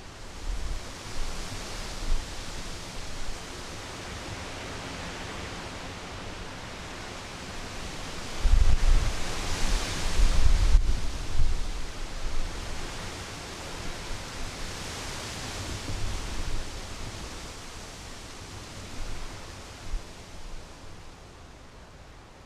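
Wind gusting on a GoPro Hero3's microphone: a steady rushing hiss that swells and fades, with low rumbling buffets from the wind hitting the mic, strongest in a gust about nine to eleven seconds in.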